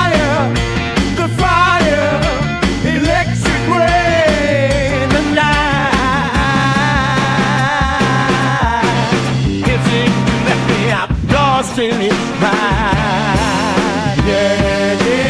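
Psychedelic rock instrumental passage: a wavering lead melody with heavy vibrato over a steady bass line and drums.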